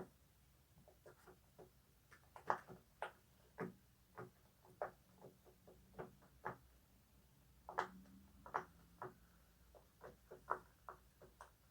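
Silicone pop-it fidget toy having its bubbles pressed one at a time: soft, irregular pops, about one or two a second, coming more quickly near the end.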